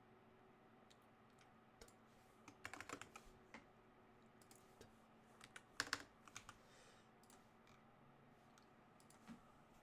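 Computer keyboard typing, faint: a few scattered keystrokes and two short bursts of keys, about three seconds in and again about six seconds in, over a faint steady hum.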